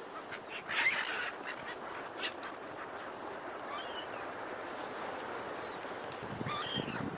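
Seagulls squawking: harsh calls about a second in, again around four seconds and near the end, over a steady hiss of surf.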